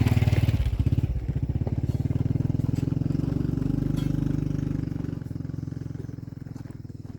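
A small engine running close by, with a rapid even pulse; it dips briefly about a second in, then grows steadily fainter from about five seconds on.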